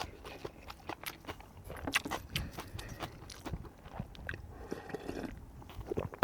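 A person chewing and biting food, with irregular wet clicks and smacks.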